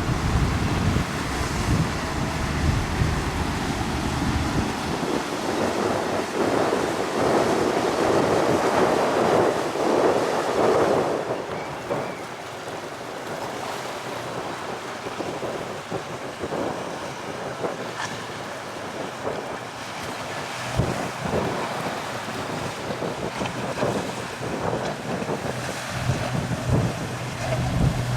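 Wind buffeting the microphone over the wash of choppy inlet water, with the low hum of a motorboat's engine that fades in the first few seconds and another boat's engine growing louder near the end.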